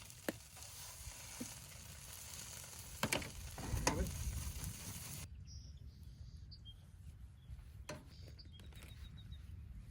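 Peppered taco meat sizzling in a hot pan, with a few sharp knocks and scrapes. The sizzle cuts off suddenly about five seconds in, leaving only faint clicks.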